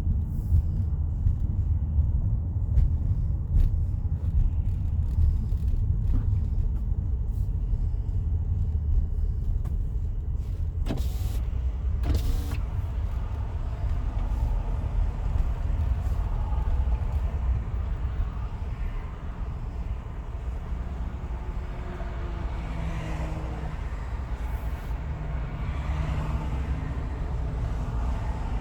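A car driving at freeway speed, with steady road noise: a low rumble of tyres and engine, and two sharp knocks about a second apart around a third of the way in.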